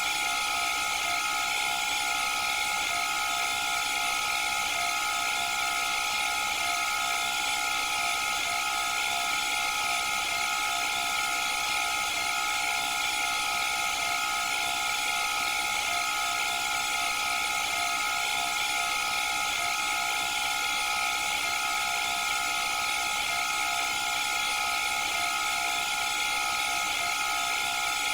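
Candy front-loading washing machine in a steady spin: a constant high-pitched motor whine over a hiss, holding the same pitch throughout.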